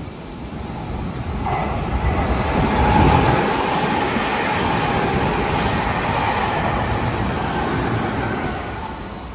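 Meitetsu 2200 series limited express electric train passing close at speed: wheel and running noise builds to its loudest about three seconds in and holds steady with a faint steady whine, then eases off near the end as the last cars go by.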